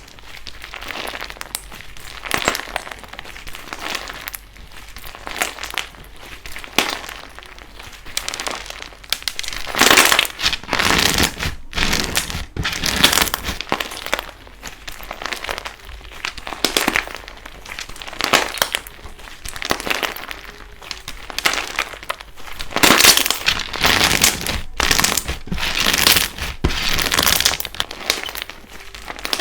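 Slime being squeezed and worked by hand, giving runs of small pops and crackles in uneven bursts that swell and fade every second or two.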